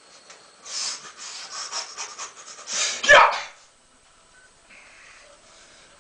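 A man panting hard in quick puffs for about two seconds, then one loud, sharp exhale with a falling voiced edge, about three seconds in: strained breathing while lifting dumbbells.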